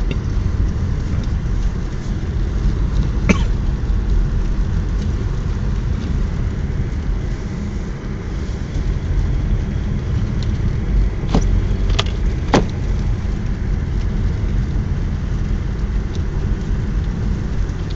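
Car driving up a mountain road, heard from inside the cabin: a steady low rumble of engine and tyres, broken by a few sharp clicks or knocks, one about three seconds in and three more between eleven and thirteen seconds.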